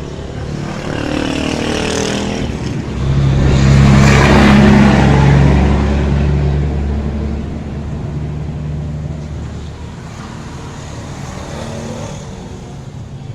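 A motor vehicle engine running, swelling louder about three seconds in and fading again after about seven seconds.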